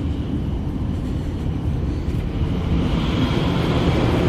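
Steady rumble and rushing of an E5 series Shinkansen running at high speed, heard from inside the train. It grows a little louder and hissier about three seconds in.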